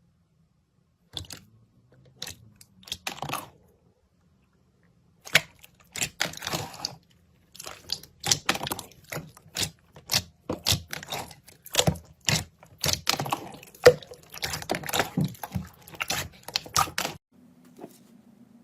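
Slime being pressed and squeezed by hand, giving sharp clicking pops in quick, irregular runs. It starts with a few scattered clicks, and the runs grow dense after about five seconds.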